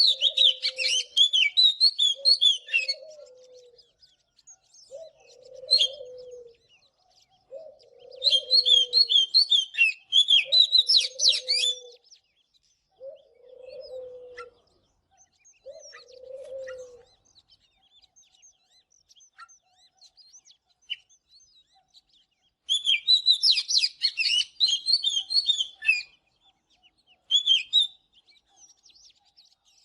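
Oriental magpie-robin singing: three long bursts of rapid, varied whistled phrases with short notes between them. Under the first half a lower note repeats about every second and a half, then stops.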